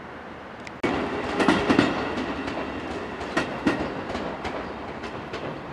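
Electric commuter train passing close by, its wheels clattering over rail joints in a run of sharp clicks. It comes in suddenly about a second in, is loudest soon after, and slowly eases off.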